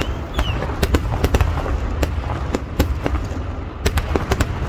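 Festival fireworks going off: a rapid, irregular string of sharp firecracker bangs, about three or four a second, over a continuous low rumble, with a short whistle near the start.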